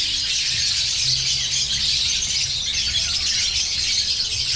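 Continuous massed screeching chatter of a large aviary full of caged lovebirds (Agapornis), many birds calling over one another at once.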